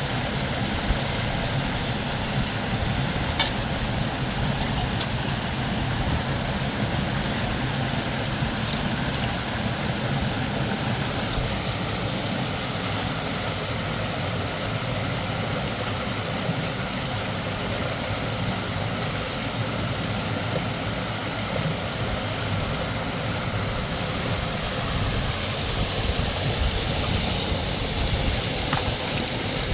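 River water running steadily in a constant rushing hiss, with a few brief sharp clicks or knocks.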